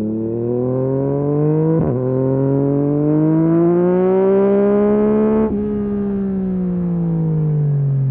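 2023 Yamaha MT-09 SP's inline-three engine through a full Akrapovic race exhaust, pulling hard: the pitch climbs, dips briefly at a gear change about two seconds in, and climbs again. About five and a half seconds in it drops sharply, then winds down slowly.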